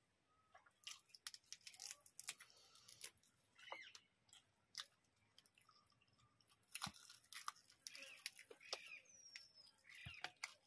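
Faint, close chewing and lip smacks of two people eating rice and chicken curry by hand, coming irregularly as short clicks and smacks.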